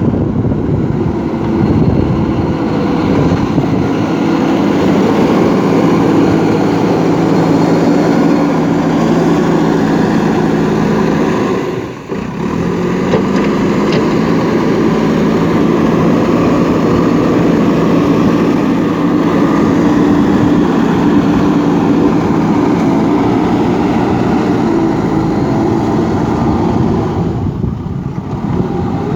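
JCB backhoe loader's diesel engine running steadily under working load, dropping out briefly about twelve seconds in and coming back slightly higher in pitch.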